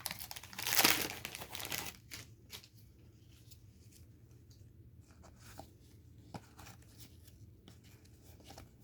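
Plastic wrapper of a trading-card pack crinkling and tearing for about the first two seconds, then faint taps and slides of cards being handled.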